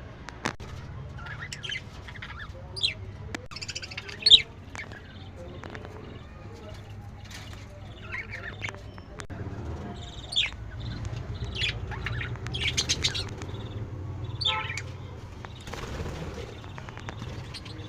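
Budgerigars chirping and calling in quick, high bursts, scattered irregularly, with a sharp louder call about four seconds in.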